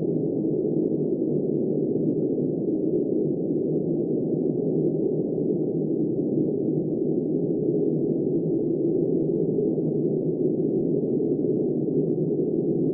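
Blizzard wind blowing steadily as a deep, muffled rush, with no high hiss or separate gusts.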